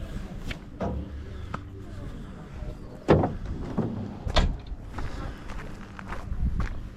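Several knocks and thumps as dinghy gear is handled during rigging. The loudest comes about three seconds in and another strong one about a second later. A low rumble of wind on the microphone runs underneath.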